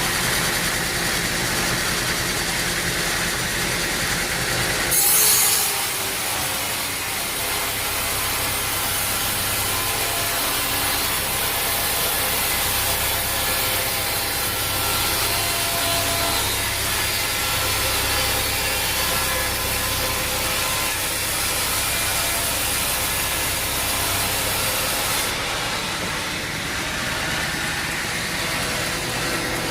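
Sawmill saw cutting through a log over a steadily running engine. About five seconds in the blade bites in with a brief loud burst, then saws steadily for about twenty seconds before the cut ends, leaving the engine running alone.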